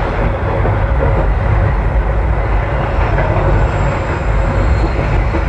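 Passenger trains running on a curve: a loud, steady rumble of wheels on rails, heard close up from a carriage window as another train passes on the adjacent track.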